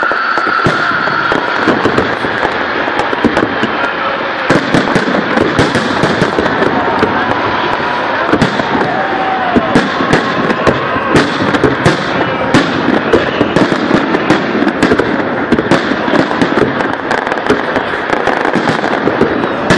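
Fireworks salute: many sharp cracking bangs of bursting shells over a steady rumble, coming thick and fast from about four seconds in, with voices of onlookers underneath.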